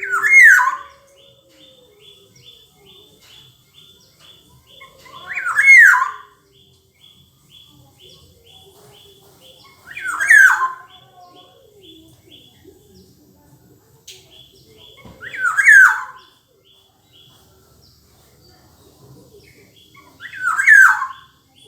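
Black-naped oriole (kepodang) giving a loud call five times, each under a second long and about five seconds apart.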